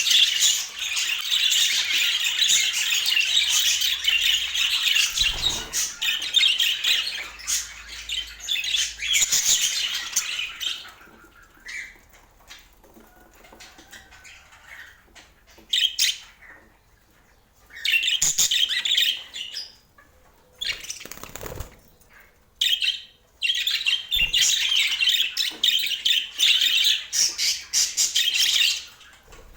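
Pet budgerigars chattering: a dense run of high chatter for about ten seconds, a few quieter seconds, then shorter bursts and another long run near the end.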